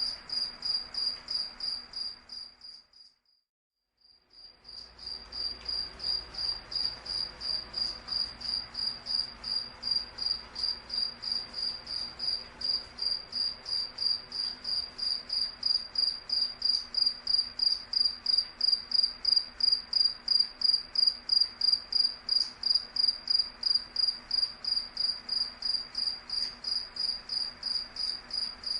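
A cricket chirping steadily, about three high-pitched chirps a second. The chirping fades out about two seconds in and fades back in a couple of seconds later.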